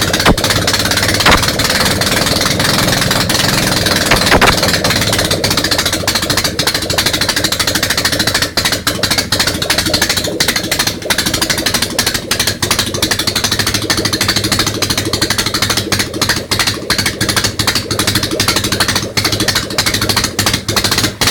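Ural engine running just after its first start following a major overhaul, fed by only one carburettor. It runs loud and fast with an uneven, jerky beat.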